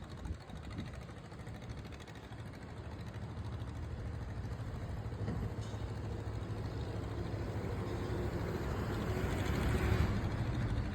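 An engine running steadily, its low hum growing gradually louder.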